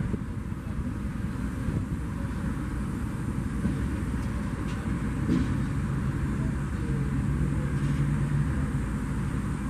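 Low, steady rumble of a freight train of loaded hopper wagons shoved slowly along by an EMD GR12W diesel locomotive, with a low steady hum joining about halfway through.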